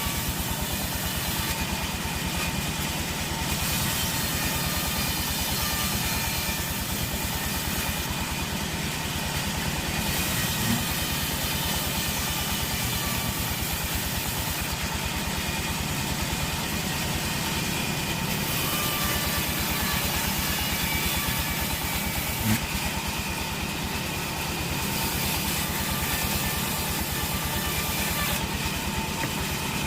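Sawmill machinery running steadily, an engine-like drone with no letup. Two short knocks stand out, about 11 seconds in and again about 22 seconds in.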